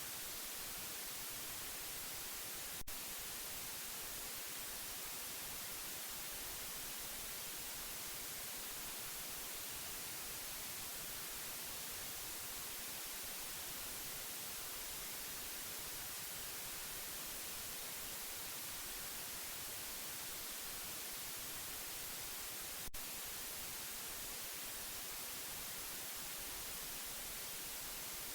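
Steady white noise: an even, unbroken hiss, brightest in the treble. Two faint clicks come about twenty seconds apart, one a few seconds in and one near the end.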